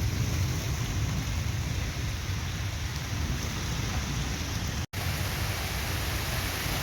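Heavy stormy rain pouring onto maize plants: a dense, steady hiss with a deep rumble underneath. The sound cuts out for an instant about five seconds in.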